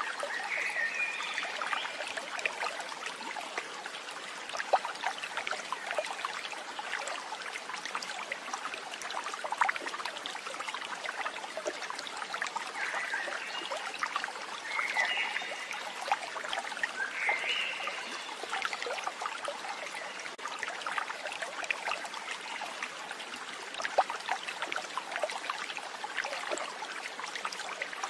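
Water trickling and babbling steadily, like a small stream over stones, with a few short high chirping calls from an animal near the start and again about halfway through.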